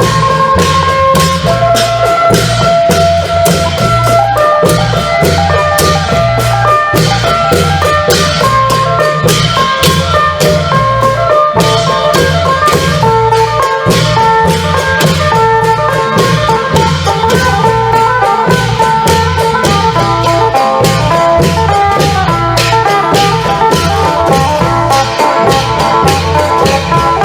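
Isan klong yao long-drum ensemble playing with a phin lute: a fast, steady drum and cymbal rhythm under a plucked phin melody.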